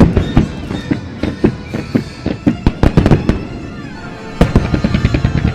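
Fireworks shells bursting in a rapid run of loud bangs, turning into a dense, fast crackle about four and a half seconds in.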